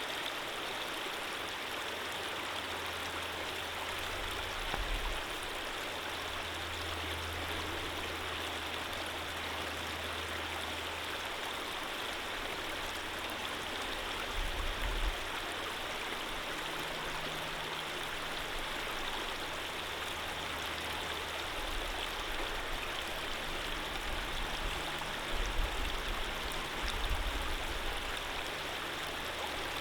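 Stream water flowing steadily in an even rush, with a low rumble underneath that comes and goes.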